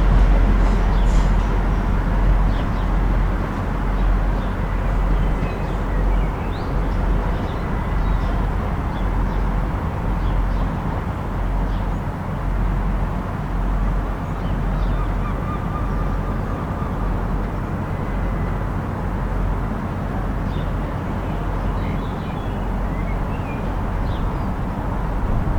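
Steady low rumble of a diesel train engine running at a station, with brief high chirps of birds scattered over it.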